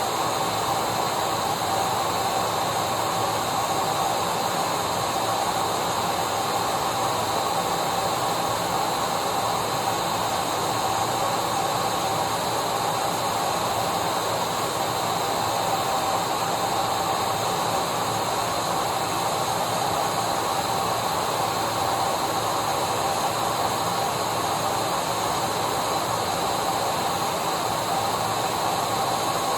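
Vacuum cleaner running steadily: an unbroken whir and hiss with a faint motor whine.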